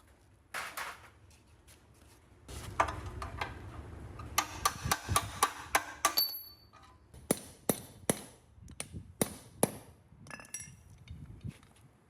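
Hammer striking steel: a quick run of blows, a brief metallic ring, then several spaced single blows.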